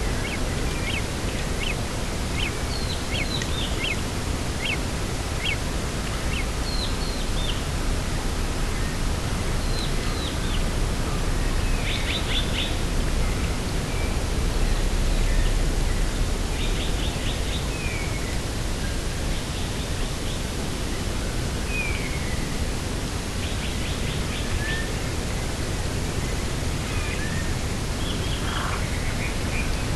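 Outdoor ambience: a steady rushing noise of wind and distant sea, with birds chirping. A quick run of short high chirps comes in the first few seconds, then scattered calls and brief trills.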